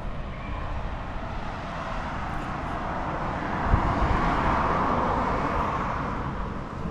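A car passing by, its tyre and engine noise swelling to a peak about four seconds in and then fading away.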